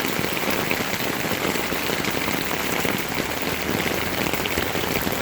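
Steady heavy rain falling, a dense pattering of drops hitting surfaces and standing floodwater.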